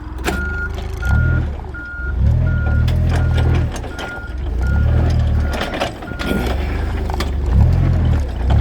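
Forklift reversing alarm beeping steadily at a single pitch, just under two beeps a second, stopping about six seconds in. Underneath, the forklift's engine rumbles and rises and falls as it is driven.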